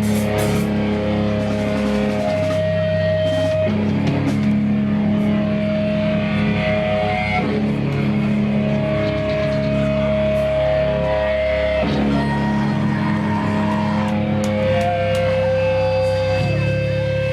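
Live rock band playing, with electric guitars holding sustained, ringing chords that change every few seconds.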